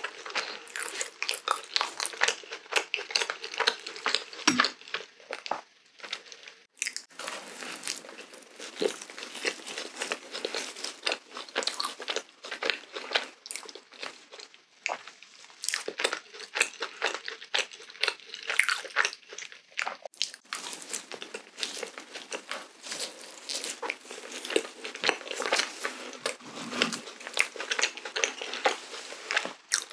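Close-miked chewing and biting of a glazed Krispy Kreme doughnut, heard as a dense run of small clicks and mouth noises.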